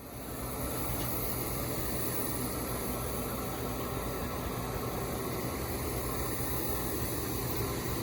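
Steady machine hum with an even hiss over it, starting abruptly and running without change.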